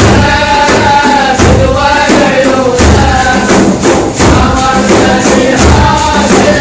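Devotional chanted song: sung vocals over a steady percussion beat, with tambourine-like jingles and deep drum thumps about every second and a half.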